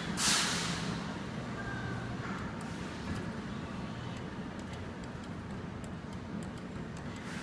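Steady low hum and background noise from the claw machine and the store around it, with a brief rushing hiss at the start and faint scattered ticks.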